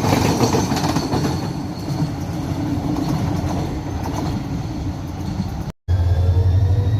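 Freight train wagons rolling past, a steady rumble and clatter of steel wheels on the rails. About six seconds in, the sound cuts out for a moment and a steady low hum takes over.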